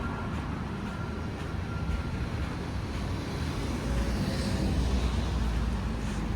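City street traffic rumbling steadily, swelling louder about four seconds in as a vehicle passes.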